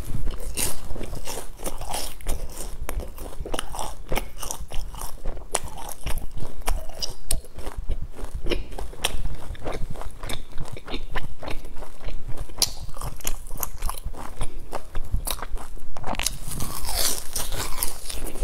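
Close-miked crunching and chewing of a crisp sesame-crusted bun, with many small irregular crackles. A denser, louder spell of crunching comes near the end.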